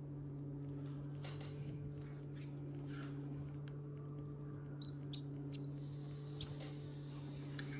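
Several short, faint, high peeps from a tiny nestling bird being hand-fed, starting about five seconds in, with a few soft clicks. A steady low hum runs underneath.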